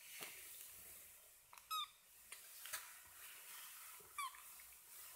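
Young kitten giving two short, high-pitched mews, one a little under two seconds in and another about four seconds in, with a few faint clicks between.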